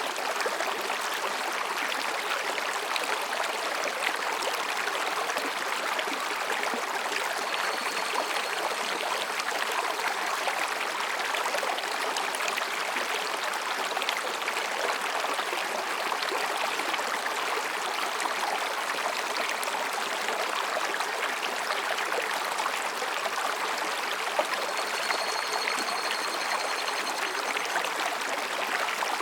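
Mountain stream babbling over and between rocks, a steady rushing and splashing of water. Twice, faint thin high calls sound briefly above it: once about eight seconds in and again near the end.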